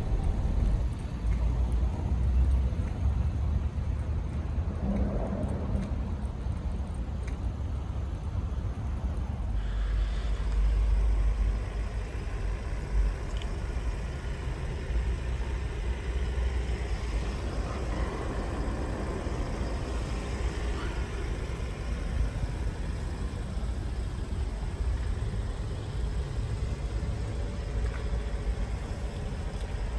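2020 Chevrolet Blazer RS's 3.6-litre V6 starting about ten seconds in: a brief flare of revs for about two seconds, then settling to a steady idle.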